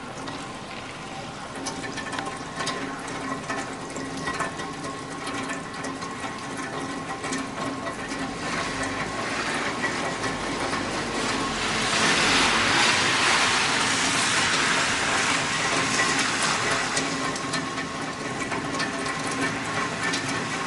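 Rain falling, with many small drip taps, growing heavier about twelve seconds in and easing off a little toward the end. A faint steady hum runs underneath.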